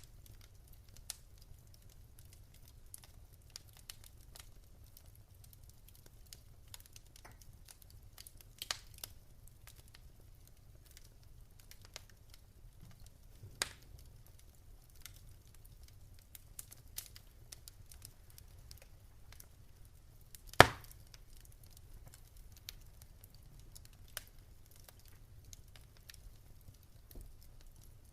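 Wood fire in a fireplace crackling: scattered small clicks and pops over a low rumble, with one loud, sharp pop about two-thirds of the way through.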